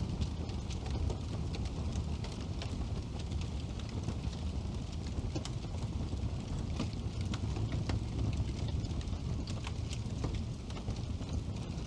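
Wood burning in a fireplace, crackling with frequent irregular sharp pops over a steady low rumble of the flames.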